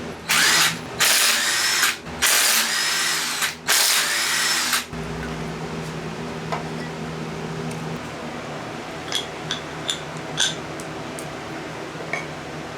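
A handheld power tool run in four short bursts, each spinning up and winding down, as bolts are taken off the engine. After that come a few light metallic clicks and taps over the steady hum of a shop fan.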